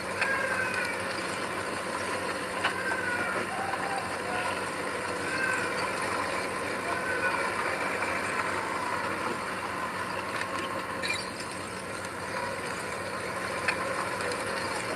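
Heavy diesel earthmoving machine running steadily, with short squeals every second or two and occasional clanks.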